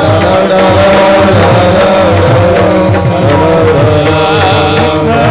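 Warkari kirtan music: voices singing a devotional refrain over a held drone and a steady hand-drum rhythm.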